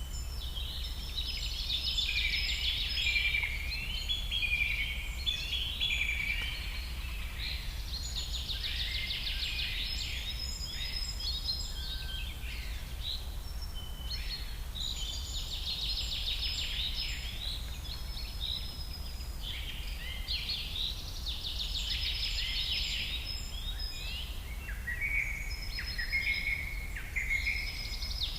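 Songbird singing long, fast, jumbled phrases of high notes and trills that repeat in bouts about every six or seven seconds, over a steady low rumble.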